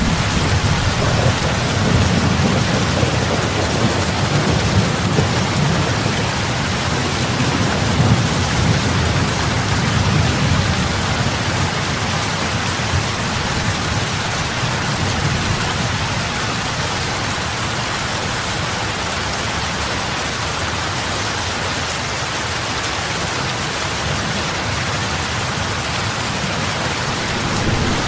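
Steady rain falling on open water: a dense, even hiss of drops on the lake's surface. A low rumble underneath is strongest in the first part, eases off, then swells again near the end.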